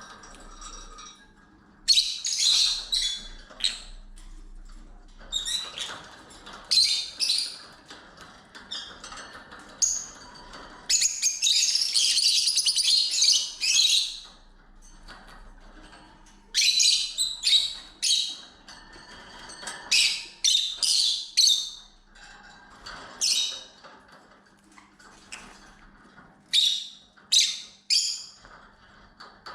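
Lovebirds calling: repeated sharp, shrill chirps and squawks in clusters, with one longer unbroken stretch of chatter about a third of the way through.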